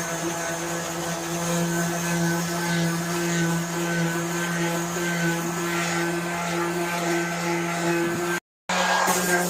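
Handheld electric power tool running at a steady pitch, sanding rust off a metal go-kart seat, with a rough grinding hiss over the motor's hum. The sound cuts out completely for a moment near the end.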